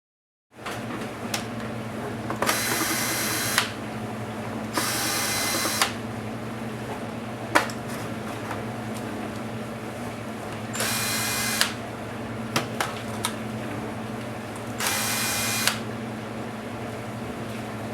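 Small electric screwdriver spinning in four short bursts of about a second each, backing screws out of the Dell Inspiron 1525 laptop's case, with light clicks of screws and tools being handled in between. A steady low hum runs underneath.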